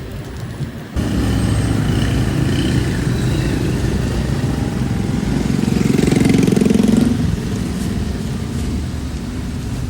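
Motorbike engines in street traffic, with the sound growing suddenly louder about a second in and one bike swelling loudest as it passes about six to seven seconds in.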